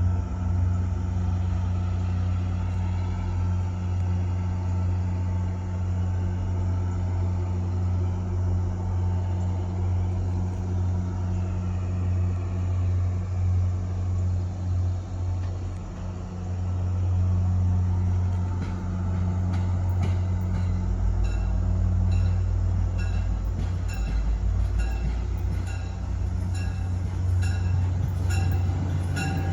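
A train going by: a steady low diesel engine drone, then from about two-thirds of the way in, the wheels clicking over rail joints in a regular beat.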